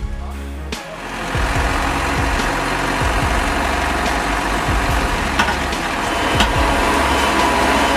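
A heavy vehicle's engine running steadily, getting louder about a second in, with two sharp knocks near the middle.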